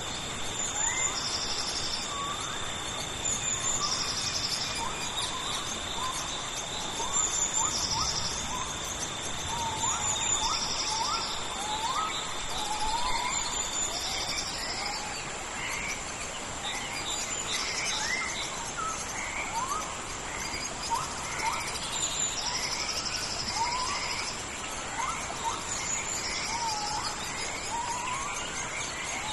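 Tropical rainforest ambience: a steady hiss of rain under a chorus of insects. The insects make two steady high drones, one of which stops about halfway, and pulsed high trills repeat every couple of seconds. Many short, rising chirping calls sound throughout.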